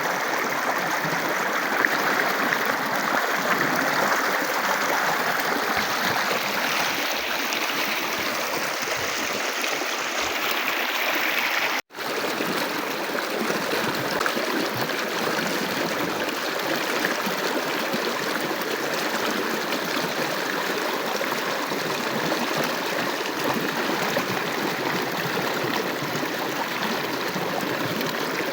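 Shower water spraying and running steadily, with a break for an instant near the middle.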